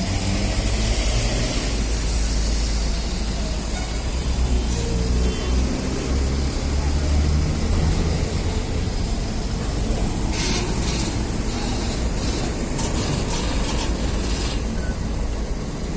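Heavy truck engines running with a steady low drone amid passing road traffic, with a few short clicks or rattles about two-thirds of the way through.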